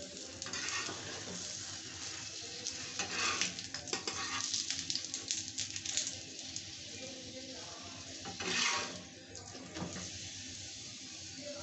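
Oil sizzling on a hot iron tawa under a frying paratha, swelling in surges as oil is poured on and spread, with light scrapes and taps of a steel spatula on the pan in the middle.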